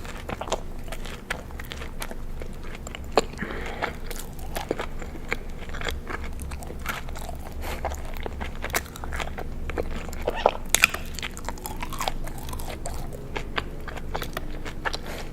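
Close-miked chewing and biting into crunchy food: irregular sharp crunches and mouth clicks throughout, over a low steady hum.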